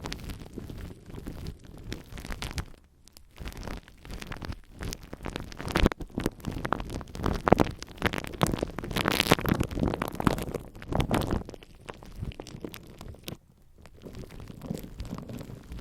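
Glue stick rubbed and dabbed directly on a microphone's surface, giving dense sticky crackles and pops meant to imitate rain. It grows louder in the middle, with two brief lulls.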